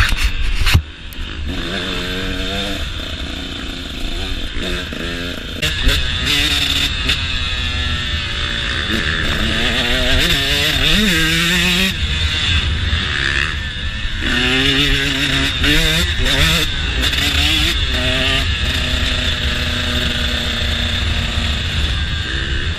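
KTM motocross bike engine revving up and down again and again as the throttle is opened and closed while riding.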